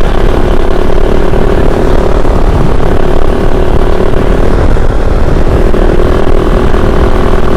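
Kove 450 Rally's single-cylinder engine running at a steady speed while riding, over a dense low rumble.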